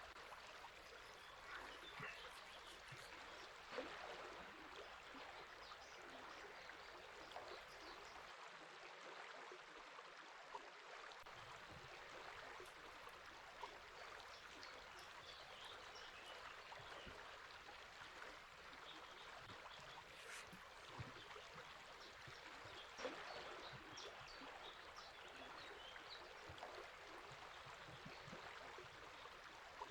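River water flowing as a faint, steady rush, with faint scattered bird calls through it.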